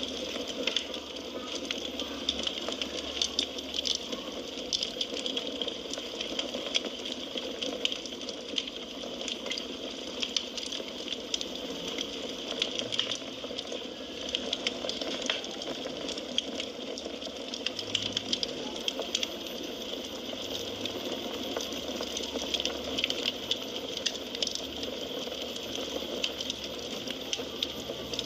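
Wood fire burning and crackling, a steady hiss of flame with frequent small sharp pops and snaps throughout.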